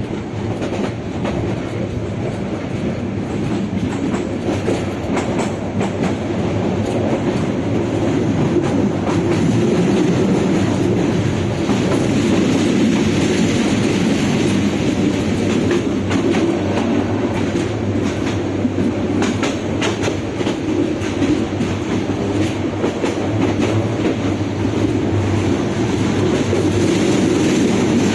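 Passenger train running along the track: a steady rumble of the carriages with scattered clicks of the wheels over rail joints, growing a little louder over the first several seconds.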